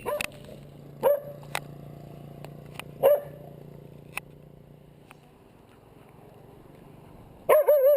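A dog barking three times in short, sharp barks, then breaking into a longer, wavering howl-like yowl near the end.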